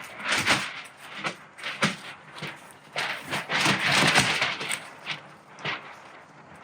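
Rustling and crinkling of a sheet of 216 plastic diffusion being handled and stretched into a softbox: a run of short crackles with a longer, louder bout of crinkling in the middle.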